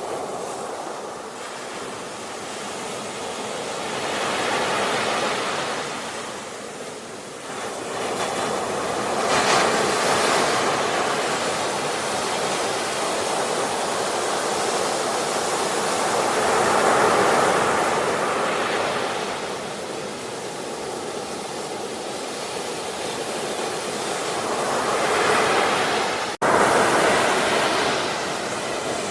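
Ocean waves washing in and breaking, the surf swelling and ebbing every several seconds. Near the end the sound cuts out for an instant and comes back loud.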